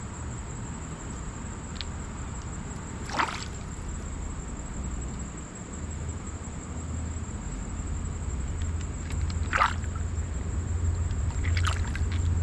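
A steady high-pitched insect drone over a low rumble that grows louder toward the end, with three short sharp clicks: about three seconds in, near ten seconds, and near the end.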